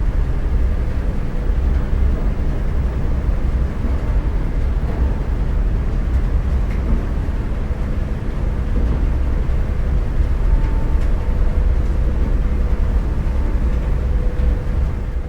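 Motorcycle riding along at steady speed: a loud, even wind rush on the microphone with a faint steady engine hum underneath.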